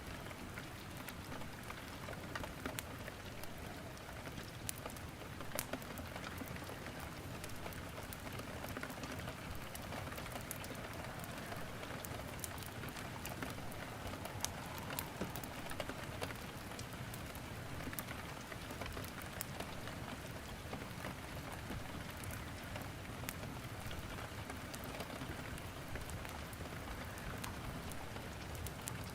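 Steady rain falling, with sharp crackles and pops of firewood burning in a fireplace scattered throughout.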